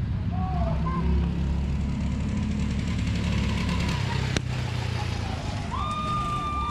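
Motor vehicle engines running steadily with a low hum, a sharp click about four seconds in, and a steady high-pitched tone starting near the end.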